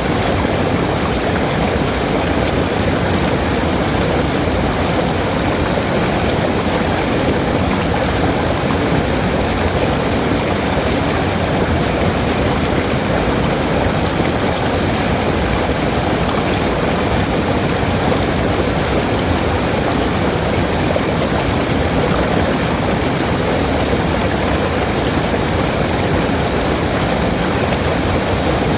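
Waterfall: a steady rush of falling water that holds the same level throughout.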